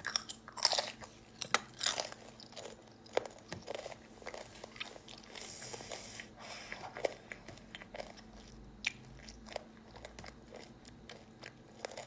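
A person chewing and crunching food close to the microphone, in irregular crunches, loudest in the first couple of seconds.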